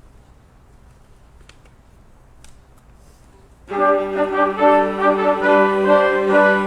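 Quiet hall with a few faint clicks, then about two-thirds of the way in a church orchestra comes in with a loud, held chord led by brass, opening the piece.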